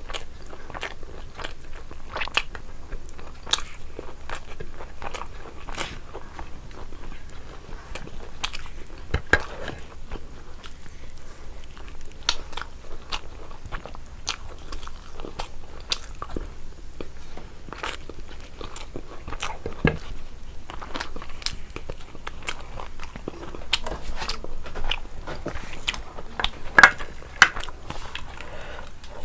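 Close-miked chewing and biting while eating biryani: wet mouth sounds with many small, irregular crunches and clicks, a few sharper ones standing out.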